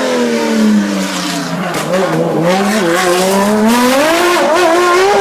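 Race car engine at high revs, falling in pitch as it slows with a few quick pitch jumps from the gear changes, then rising again about halfway through as it accelerates.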